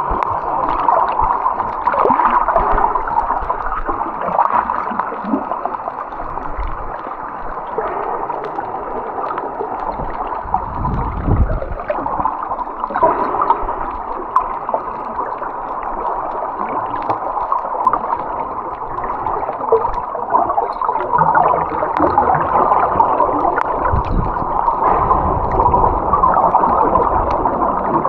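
Muffled underwater sound picked up by a camera held under the water while snorkeling: water moving and bubbling, with scattered faint clicks.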